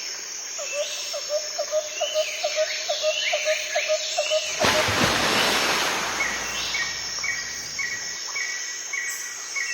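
Outdoor birdsong: a bird repeating a short chirp about three times a second, with other birds calling higher up. About halfway in, a rushing noise starts suddenly and fades over a few seconds, and then a steady run of evenly spaced higher chirps follows.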